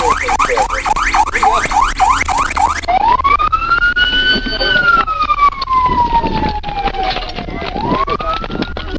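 Police siren in fast yelp mode, its pitch sweeping up about four or five times a second. About three seconds in it gives way to a slow wail that rises, falls over several seconds, and starts rising again near the end.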